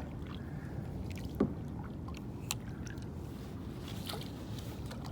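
Water moving around a kayak as it is paddled backward, with a few sharp light knocks of the paddle or gear against the hull.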